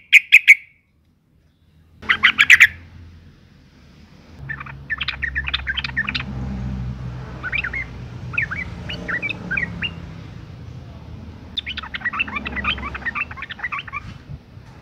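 Female yellow-vented bulbul (trucukan) calling. A few sharp notes and a loud fast burst of chirps come first, then three bouts of softer rapid chattering.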